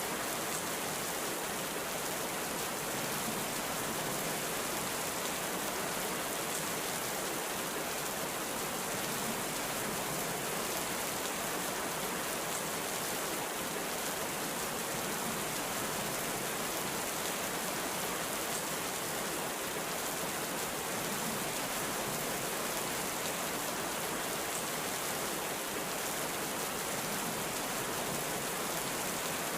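Heavy rain falling steadily, a dense even hiss with no break or thunder.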